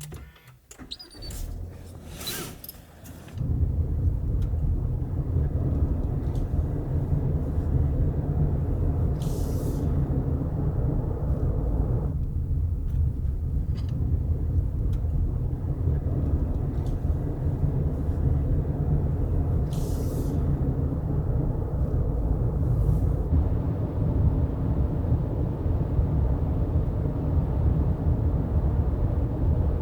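Subaru Forester's engine starting about three seconds in, after a few clicks, then running steadily as a low rumble heard inside the car.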